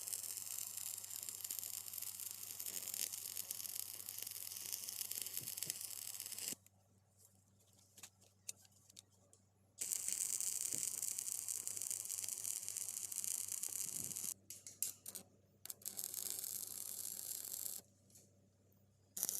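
Electric welding arc crackling and hissing in three runs of several seconds, with short pauses between the runs.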